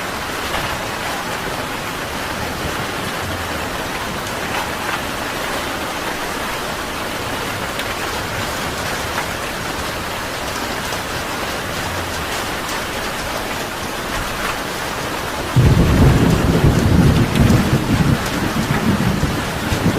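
Steady rain falling. About three-quarters of the way through, a sudden loud rumble of thunder breaks in and keeps rumbling to the end, louder than the rain.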